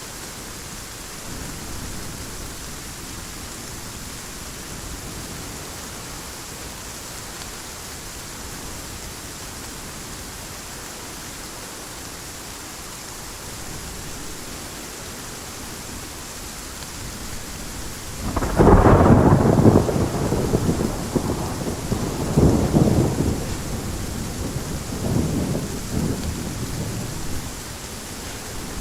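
Heavy rain falling steadily. About two-thirds of the way in, a loud thunderclap breaks, then rolls on in two more swells that die away near the end.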